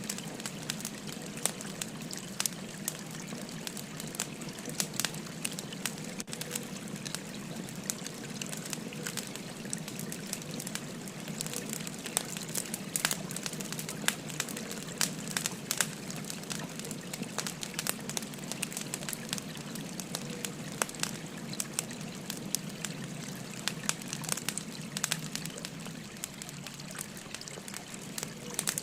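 Wood fire crackling and popping with frequent sharp snaps, over the steady rush and trickle of a flowing stream.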